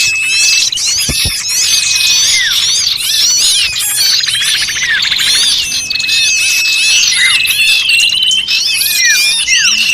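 Dense chorus of many small birds calling at once: rapid overlapping chirps and twitters, quick falling sweeps, and long held whistles. It is a bird-lure recording of noisy, agitated small birds, used to call in all kinds of small birds.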